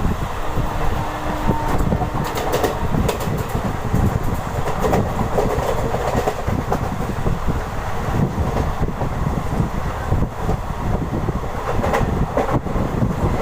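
Deccan Queen express train running on the rails: a steady rumble from the coaches with irregular clattering clicks from the wheels.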